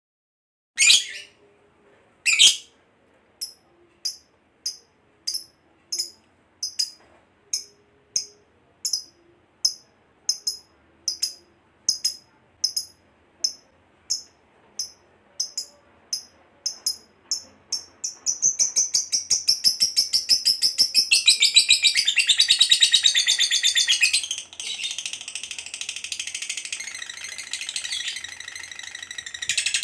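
Lovebird calling: two loud shrill calls, then a run of short sharp chirps that come faster and faster until, about two-thirds in, they run together into one long, continuous, rapid chatter, the 'ngekek panjang' long chatter prized in fighter lovebirds.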